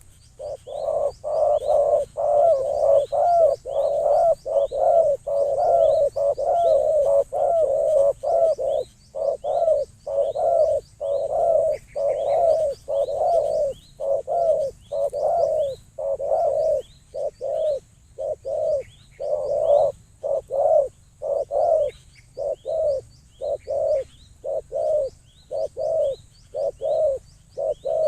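A bird calling over and over: a long run of low repeated notes, about two a second, with a few short gaps. Fainter high chirps sound behind it.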